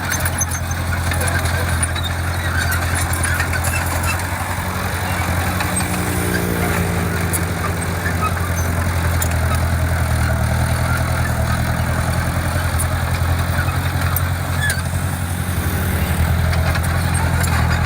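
Heavy-equipment diesel engine running steadily, its note shifting slightly about ten seconds in.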